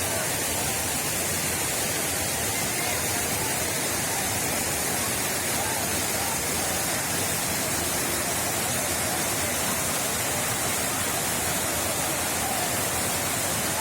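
Waterfall heard up close: falling water rushing as a steady, even hiss with no change in level.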